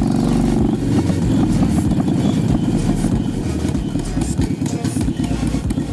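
Motorcycle V-twin engine through a Vance & Hines Big Radius exhaust, holding a steady note for about the first second, then dropping to a lower, choppy, uneven pulsing.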